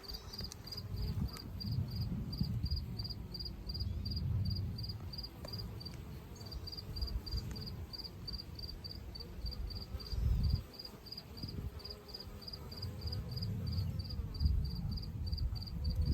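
A cricket chirping steadily in short, even high pulses, about three to four a second, over a low, uneven rumble.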